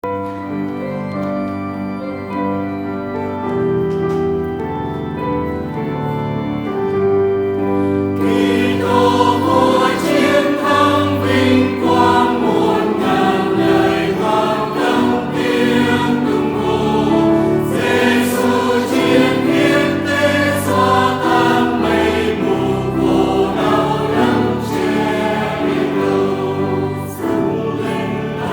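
Church choir singing a hymn in Vietnamese with instrumental accompaniment. It opens with an instrumental introduction of held notes, and the voices come in about eight seconds in.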